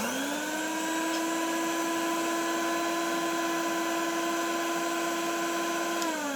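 Soviet Shmel vacuum cleaner's electric motor switched on, quickly spinning up to a steady whine, then switched off about six seconds in and winding down with falling pitch. The motor has just been serviced and lubricated; slight extra noises remain from bearings that are not perfect.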